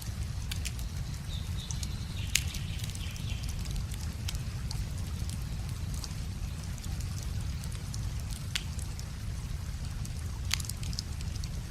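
Wood fire crackling, with sharp scattered pops over a steady low rumble; the loudest pop comes about two seconds in.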